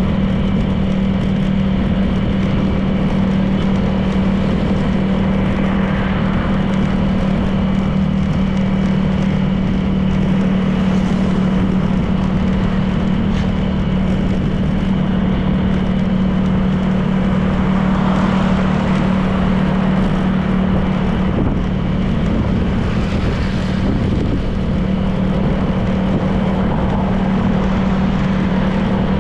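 Honda PCX 160 scooter's single-cylinder four-stroke engine running at a steady cruising speed, with road noise, and a few brief swells of noise now and then.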